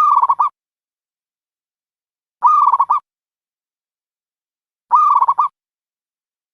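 A dove cooing: three identical short, rapidly pulsed calls, each about half a second long, repeated at an even pace about every two and a half seconds.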